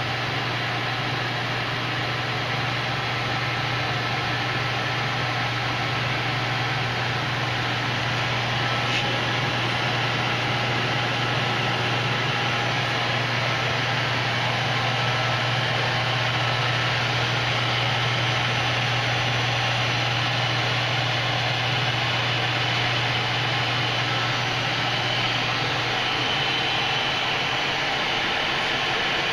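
Steady hum of running machinery: a low drone over an even rushing noise. Near the end the drone drops away and a faint high whine comes in.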